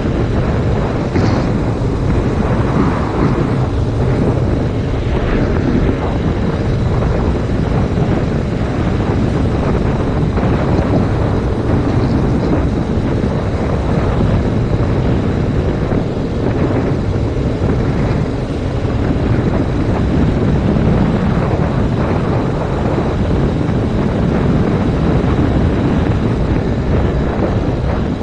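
Heavy wind noise buffeting a GoPro microphone on a moving 2019 Yamaha MT-07, steady and low, with the bike's parallel-twin engine running underneath.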